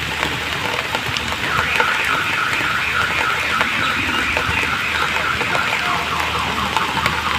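Steady rain falling, with a high, rapidly pulsing tone like a distant alarm coming in about a second and a half in and carrying on.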